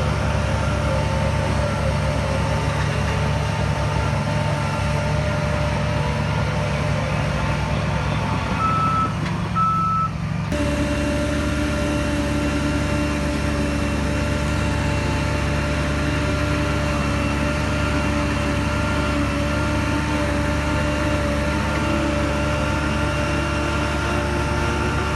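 Heavy diesel engine of earthmoving machinery running steadily. About nine seconds in, a reversing alarm gives two short beeps. About ten seconds in, the engine's note changes abruptly.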